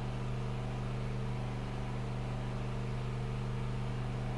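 Steady low hum with a faint buzz and hiss, unchanging throughout.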